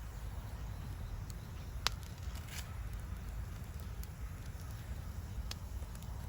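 Wood campfire burning with a few scattered sharp crackles and pops, the loudest about two seconds in, over a low steady rumble.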